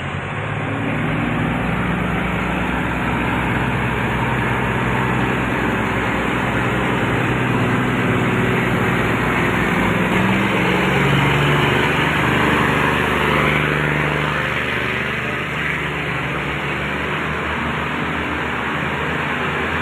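Diesel engines of an RHN diesel railcar train running under power close by, several engine notes overlapping and shifting slightly, along with a steady rumble and noise of the moving train.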